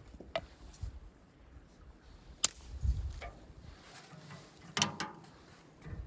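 Scattered sharp clicks and knocks, the sharpest about two and a half seconds in, followed by a dull thump and a quick cluster of clicks near five seconds.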